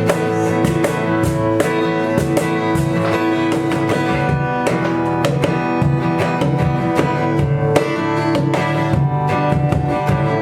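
Live band music: guitar played with drums, held notes over a steady beat.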